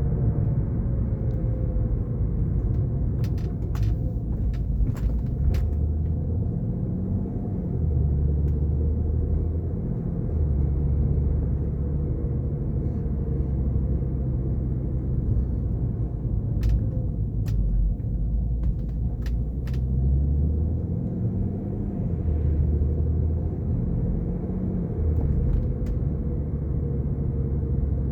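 Low drivetrain rumble from a moving BMW F10 530d xDrive, swelling and easing every few seconds, with a faint steady whine above it; the owner wonders whether it is the sound of a failing front differential.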